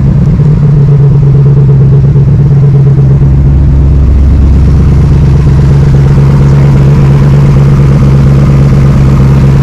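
Cobra replica's small-block Ford V8 idling steadily and loudly.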